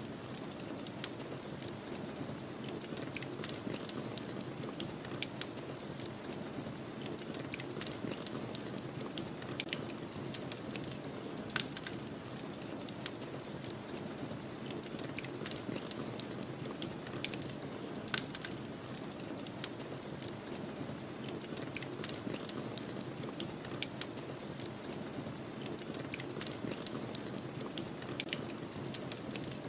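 Wood fire crackling, with irregular sharp pops and snaps, over a steady low rush of snowstorm wind.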